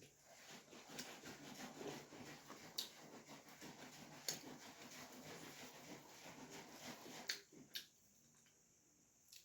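Faint sounds of a person chewing puri and vegetable curry, with a few sharp clicks, stopping about eight seconds in.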